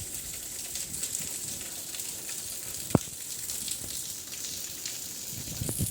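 Rain falling, a steady hiss, with one sharper drop or tap about three seconds in.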